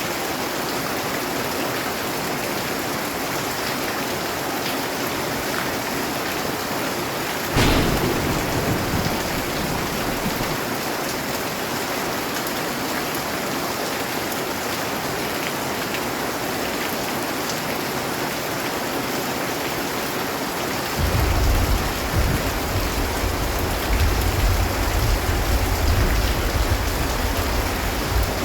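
Steady heavy rain, with a sudden crack of thunder about a third of the way in that rumbles off over a couple of seconds. A long, deep roll of thunder starts about two-thirds of the way through and runs on to the end.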